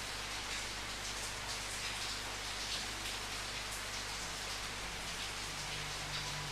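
Steady rain falling, an even hiss with scattered drops spattering on a surface.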